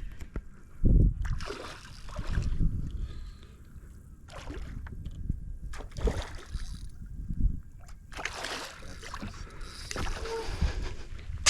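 Water splashing and sloshing in shallow water in irregular bursts, with wind buffeting the microphone.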